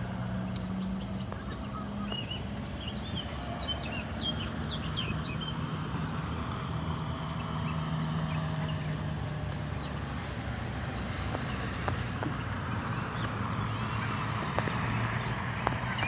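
Small birds chirping in short, quick calls, mostly in a cluster between about two and five seconds in, with a few scattered chirps later, over a steady low hum.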